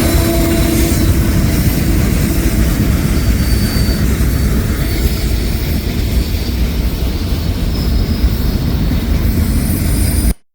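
Freight train running past close by: a loud, steady, heavy rumble. A faint steady tone fades out about a second in, and the sound cuts off abruptly near the end.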